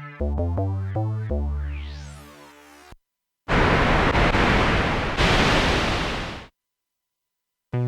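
Jeannie polyphonic synthesizer playing a few short, decaying bass-and-chord notes with a rising filter sweep. After a brief gap it plays a burst of plain hiss-like noise for about three seconds, re-struck once about halfway. It falls silent for about a second before pitched notes start again at the very end.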